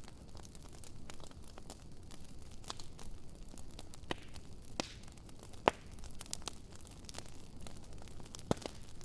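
Wood fire burning in a fire pit, crackling with irregular small snaps over a steady low hiss, with two louder pops in the second half.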